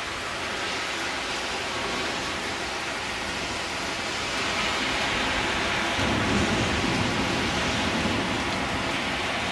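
Heavy rain pouring down and splashing on hard surfaces. About six seconds in, a low rumble of thunder swells under it and lasts a few seconds.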